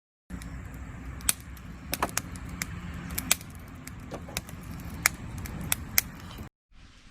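Wood fire crackling in a campfire stand, with irregular sharp pops of burning wood over a low steady rumble; it cuts off suddenly near the end.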